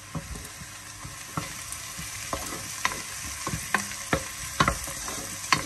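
Diced onions with freshly added garlic and ginger frying in a pot with a steady sizzle. A wooden spoon stirs them, knocking and scraping against the pot in sharp, irregular clicks, the loudest near the end.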